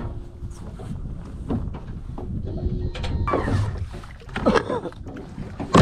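Wind rumbling on the microphone aboard a small jon boat, with a few short gliding squeaks midway and a sharp knock at the very end.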